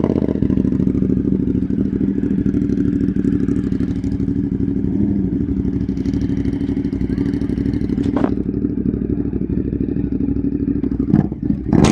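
A vehicle engine idling close by, steady and loud with an even pitch. Sharp knocks come about eight seconds in and twice near the end.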